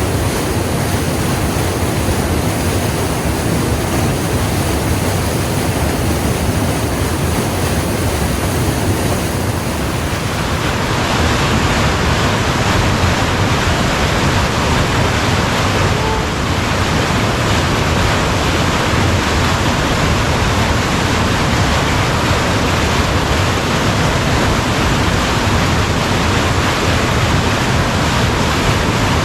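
Waterfall water rushing steadily and loudly. About ten seconds in the rush shifts and becomes slightly louder and fuller.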